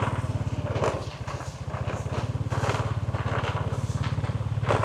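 A small engine idling steadily with a fast, even putter.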